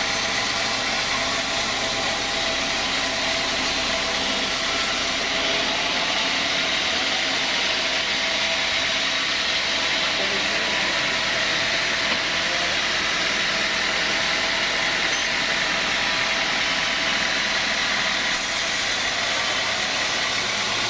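Sawmill machinery running steadily: a constant mechanical noise with a high whine and several fixed hums. The highest hiss thins out from about five seconds in until near the end.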